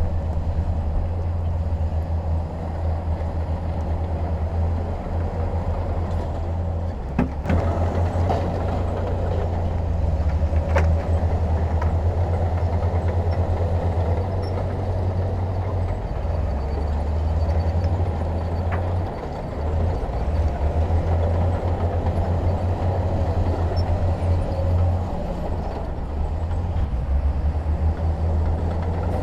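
Heavy diesel engine of earthmoving machinery running steadily with a deep drone, with a few short knocks about 7 and 11 seconds in.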